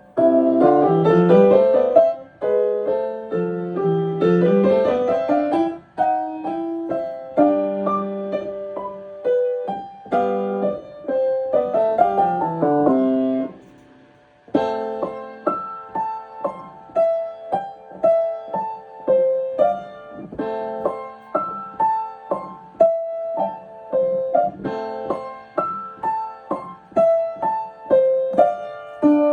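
Piano playing: fast rising and falling runs of notes, a brief stop about halfway through, then a steadier pattern of repeated notes.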